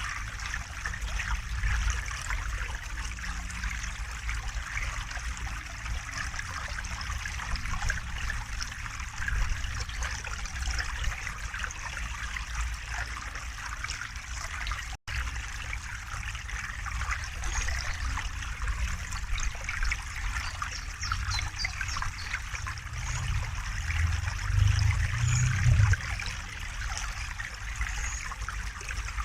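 River water flowing and trickling in a steady babble, briefly cutting out about halfway through.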